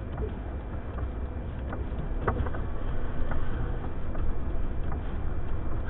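Blizzard wind rumbling and buffeting on the microphone, with a few sharp ticks scattered through it.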